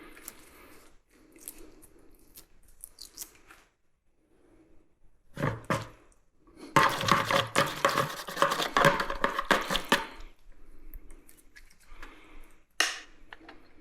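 Small metal parts and hand tools clinking and scraping during work on a rock drill's engine, with a dense, rapid rattling of metal for about three seconds near the middle.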